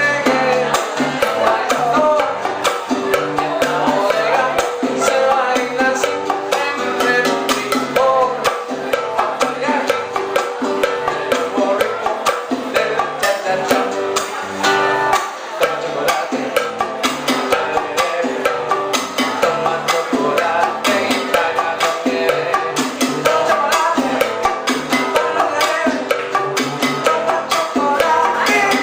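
Live old-school Cuban band playing salsa-style dance music: a steady percussion beat with wood-block clicks over a moving bass line.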